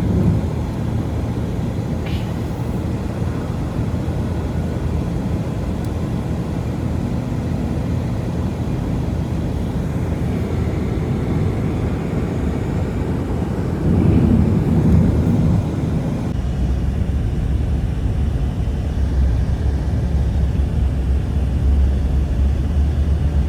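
Loud, steady low rumble that cuts in suddenly, swells briefly about fourteen seconds in, then settles into a deeper, even hum.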